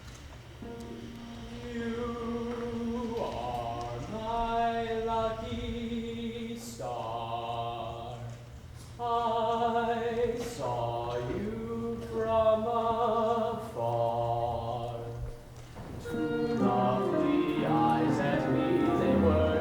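A live musical-theatre song: a woman sings a slow ballad in phrases of long held notes with vibrato, over quiet instrumental accompaniment.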